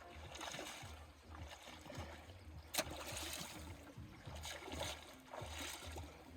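Faint outdoor ambience of a river flowing, with an uneven low rumble and one sharp click about three seconds in.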